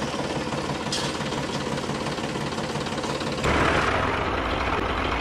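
Engine running steadily, stepping up in loudness about three and a half seconds in.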